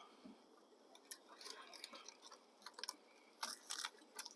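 Faint, scattered clicks and crinkly rustles of cooking gear being handled, a handful of sharper ticks among them, as the potatoes and onions are checked.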